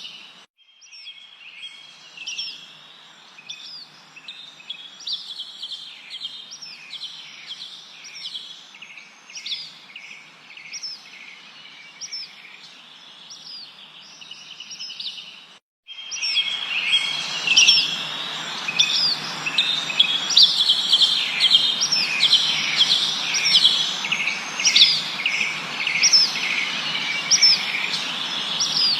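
Birds chirping: many short, high calls with quick downward sweeps, repeated rapidly over a steady hiss. About halfway through the sound drops out for an instant and comes back louder.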